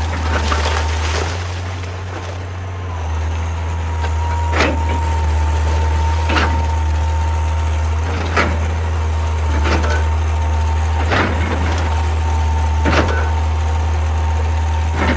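Excavator's diesel engine running steadily with a continuous hydraulic whine, easing off briefly about two seconds in. From about four seconds in, sharp knocks repeat roughly every one and a half to two seconds.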